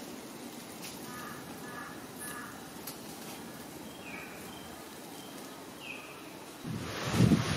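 Forest ambience with a few short bird calls: a quick cluster of chirps early on and two short falling calls later. Near the end, wind starts buffeting the microphone loudly.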